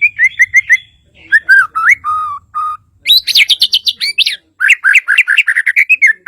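White-rumped shama (murai batu, Bornean form) singing loudly in varied whistled phrases: a quick run of repeated notes, two slurred lower whistles, a fast high trill about halfway through, then another rapid series of notes.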